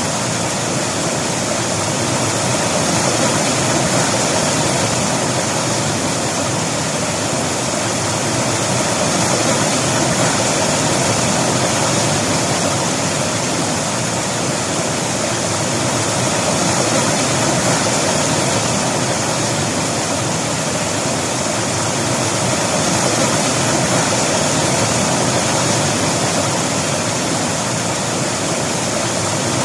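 River water rushing and splashing over rocks: a steady, loud, even rush.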